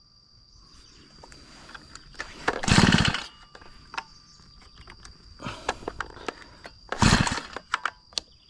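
Brush cutter being pulled over on its recoil starter three times, each pull a short burst that dies away without the engine catching, its carburettor screw turned hard down. Small clicks and knocks of handling come between the pulls.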